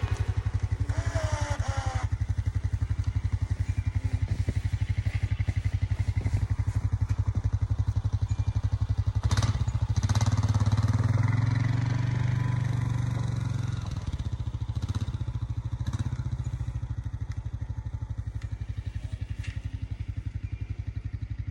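An engine running steadily with evenly spaced firing pulses. It grows somewhat louder about ten seconds in for a few seconds, then settles back.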